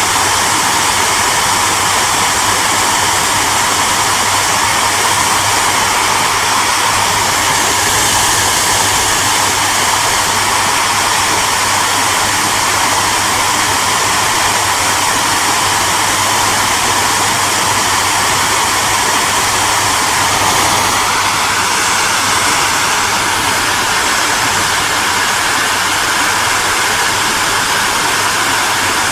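Hair dryer running steadily: a constant rushing hiss of blown air over a low motor hum, the tone shifting slightly about two-thirds of the way through.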